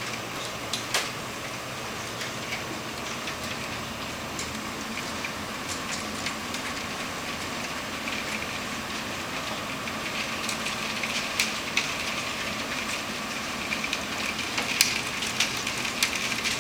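Heavy rain pouring steadily, with sharp drops smacking a hard surface close by; the drops come louder and more often in the last several seconds.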